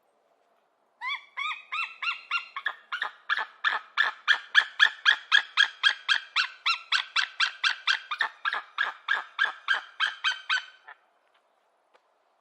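Hawk calling a long, rapid series of short, harsh repeated notes, about three to four a second. The series starts about a second in with a few slower notes and stops shortly before the end.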